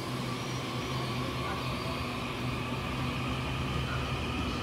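Taiwan Railways EMU900 'Smile' electric multiple unit pulling out of the station, rolling past at low speed. It gives a steady low hum with a fainter, higher whine over it.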